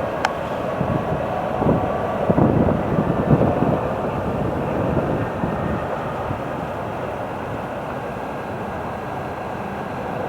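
Train running through a station with a steady rumble. About two to four seconds in there is a cluster of louder knocks, and a single sharp click comes just after the start.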